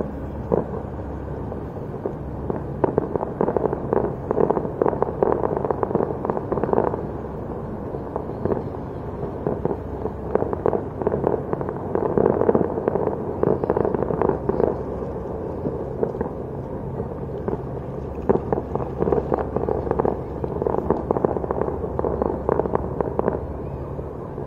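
Distant fireworks display: rapid volleys of bangs and crackles in three dense spells, over a steady low rumble.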